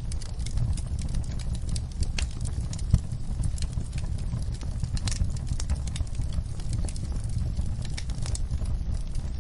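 Wood fire burning in a fireplace: a steady low rumble of flames with constant irregular crackles and snaps, and one louder pop about three seconds in.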